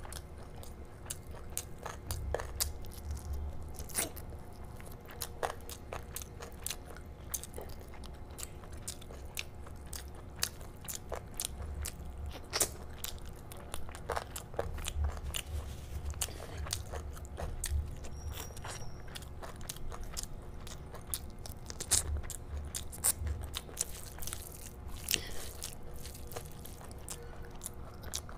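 Close-miked chewing of curry and rice eaten by hand, with frequent sharp mouth clicks and smacks throughout.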